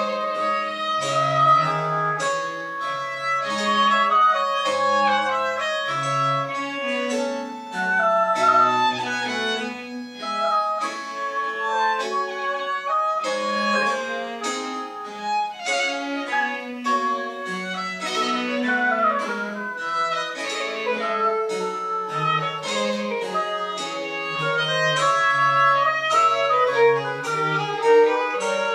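Small Baroque chamber ensemble of winds and strings playing French Baroque music: bowed strings and a wind line of quick notes over a moving bass line.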